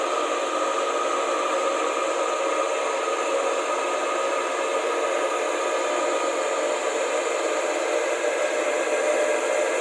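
Electric motor of a lube oil pump running steadily: a constant whir with a few steady tones over a hiss.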